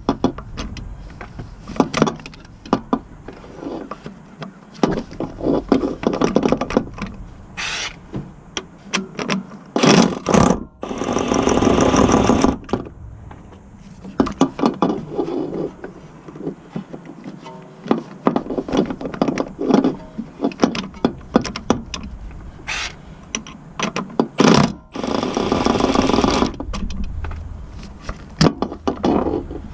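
Workshop tool noise: several runs of a cordless power tool of about two seconds each, near the middle and near the end, among many clanks and clicks of hand tools and metal parts.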